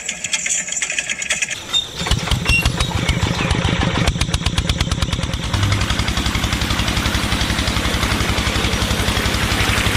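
Small petrol engine of a miniature water pump starting about two seconds in after a light rapid rattle, then running steadily.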